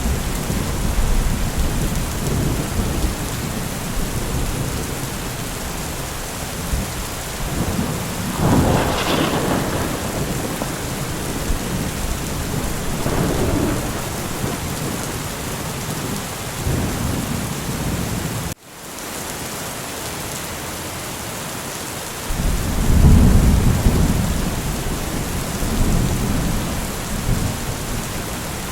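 Steady heavy rain with low thunder rolling in and out. Two-thirds of the way through, the sound cuts out abruptly for a moment, comes back quieter, then a louder roll of thunder follows.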